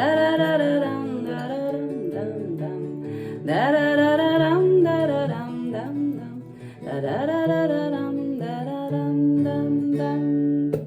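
Acoustic guitar accompanying wordless singing, la-la or humming phrases, as a song closes; the music stops abruptly near the end.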